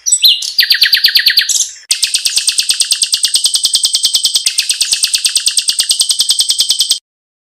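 Recorded song of a pancawarna bird: a rapid string of high chirping notes, about ten a second, shifting pitch in short phrases over the first two seconds, then a long even trill that cuts off abruptly near the end.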